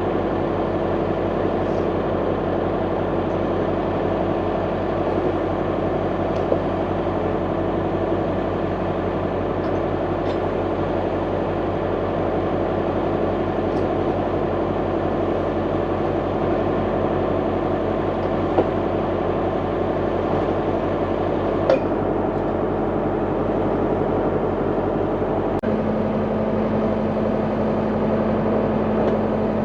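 International 785 tractor's diesel engine running steadily, its note changing about four seconds before the end.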